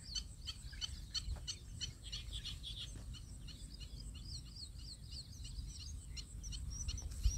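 Small birds chirping and twittering in quick repeated calls over a low steady rumble, with one sharp click just before the end.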